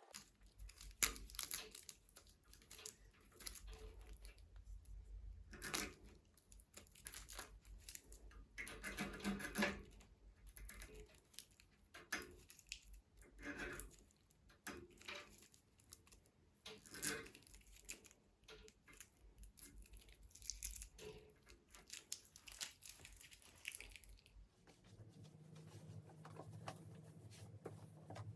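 Faint, intermittent tearing and crinkling of paper or plastic, with scattered light knocks from objects being handled.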